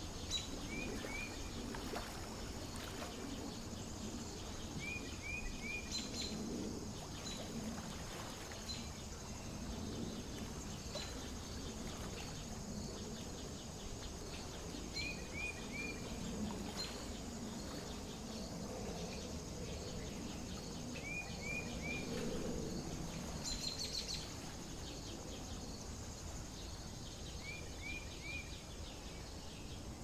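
Pond-side ambience. A small bird calls a quick phrase of three rising chirps, five times at intervals of several seconds, over a steady high hum and faint regular ticking. There is a brief crackle about three-quarters of the way through.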